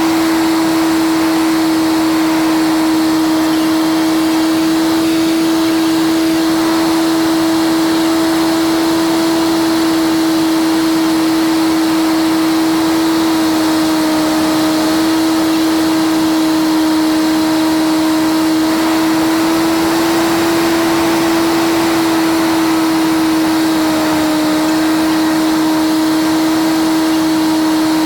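Cessna 152 piston engine and propeller droning steadily, played sped up so the hum sits higher in pitch. The pitch dips slightly about halfway through and again near the end as power is adjusted on the approach.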